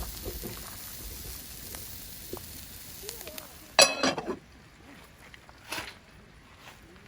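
Hiss and crackle of cooking over a wood fire. About four seconds in there is one loud, ringing metallic clank, and after it the hiss drops away.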